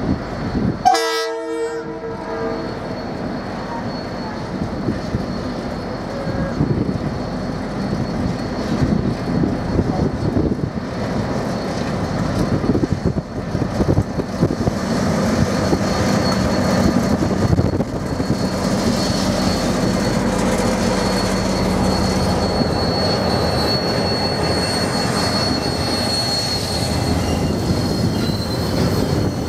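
KiwiRail diesel locomotive giving a short horn blast about a second in, then its engine running as it hauls a train of hopper wagons past with a steady rumble of wheels on rail. A thin, high wheel squeal comes in during the second half as the wagons roll by.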